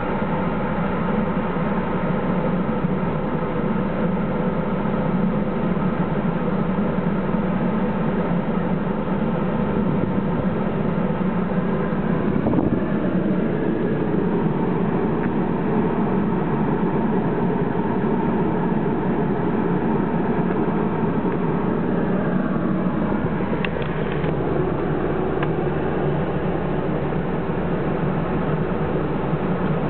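MG F air conditioning running, heard inside the car: a steady rush of air over a low hum, carrying the system's hiss, which varies in volume and comes from too little refrigerant. The sound shifts about halfway through and again, with a couple of clicks, about three-quarters of the way in.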